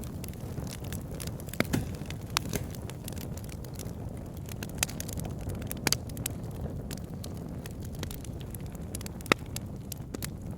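Wood logs burning in a fireplace: a steady low rumble of flames with irregular sharp crackles and pops, the loudest pop near the end.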